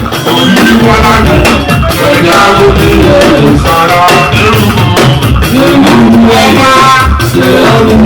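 Loud live band music with a singer's voice over a steady drum beat.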